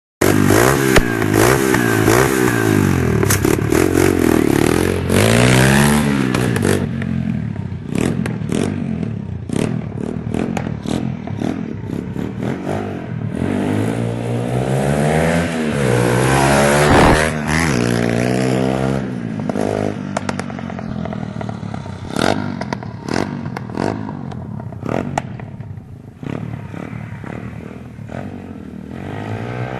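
Small motorbike engine revving up and down repeatedly, with frequent clattering knocks and scrapes over it. The sound cuts in suddenly at the start and is loudest in the first few seconds.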